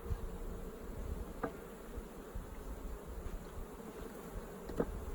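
Honeybees buzzing around an open hive in a steady hum, with two brief knocks, one about a second and a half in and one near the end.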